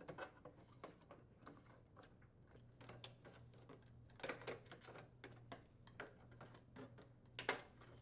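Faint, irregular clicks and scrapes of a putty knife prying plastic inner door trim off a microwave oven door, with louder clicks about four and seven and a half seconds in.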